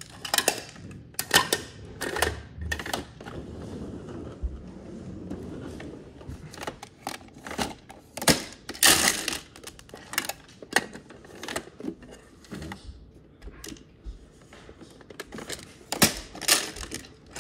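Irregular sharp clicks and clattering knocks of hard objects being handled, with a few louder cracks about a second and a half in, around nine seconds and near the end.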